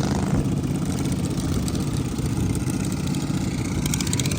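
Riding lawn mower engine running steadily, near idle.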